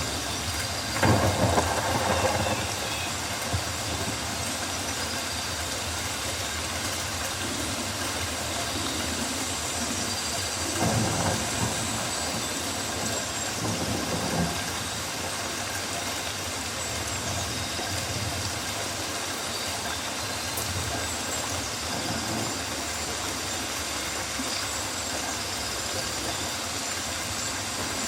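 Rainforest rain falling steadily, an even hiss, with a few louder swells of sound about a second in and again around eleven and fourteen seconds.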